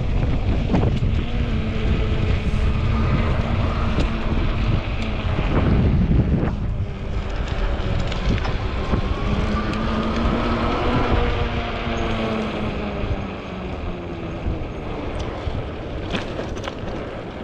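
Strong gusty wind buffeting the microphone on a moving e-bike, a loud, rough rumble. Under it runs a steady hum, fading in and out, most likely from the e-bike's drive or tyres.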